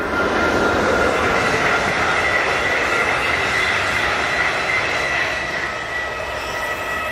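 Passenger train passing at speed on the line, a steady rushing run of wheels on rail with a high-pitched whine held throughout, loudest about a second in and easing slightly toward the end.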